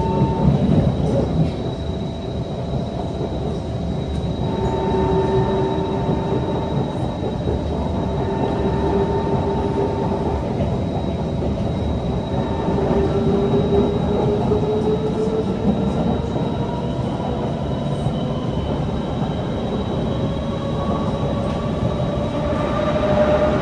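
Kawasaki C151 metro train running between stations, heard from inside the car. A steady wheel-on-rail rumble lies under a traction-motor whine whose pitch rises slowly in several stretches, with a thin steady high whistle above it.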